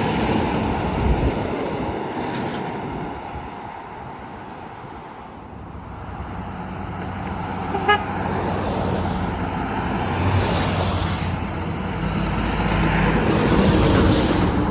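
Highway traffic going past, dying down a few seconds in, then building again as another vehicle approaches. One short horn toot sounds about halfway through.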